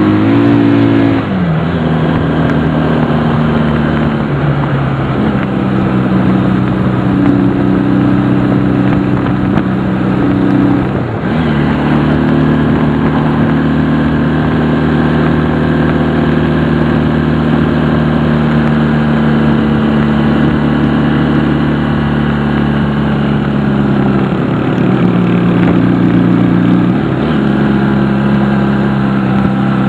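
Honda CD175's four-stroke twin-cylinder engine running steadily while riding, its note shifting abruptly about a second in, around eleven seconds, and twice near the end, as with gear changes.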